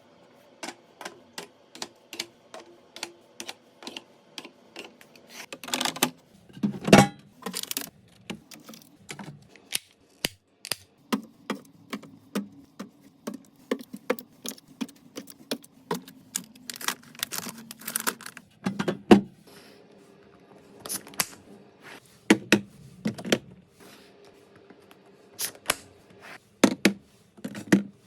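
Irregular clicks, taps and knocks of plastic food containers and packages being handled and set down in a refrigerator, with a few louder knocks about seven and nineteen seconds in.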